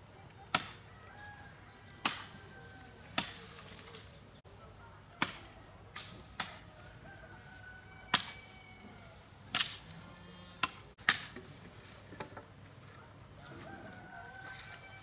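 Firewood being chopped: sharp blows land about every one to two seconds, about a dozen in all. Faint bird calls sound underneath.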